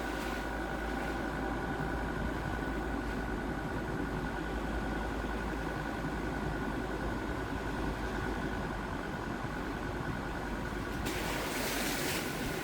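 Jeep Grand Cherokee WJ's 2.7-litre five-cylinder diesel engine running steadily, with a thin steady whine above the low rumble. A louder hiss comes in near the end.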